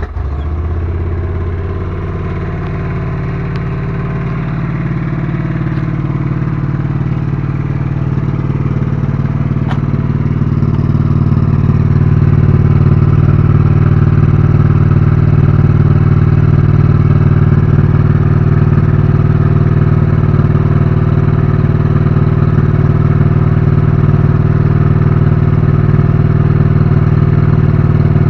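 A stock, carbureted Honda Shadow Spirit 750's V-twin engine idling steadily just after starting. The idle grows somewhat louder over the first ten seconds or so, then holds even.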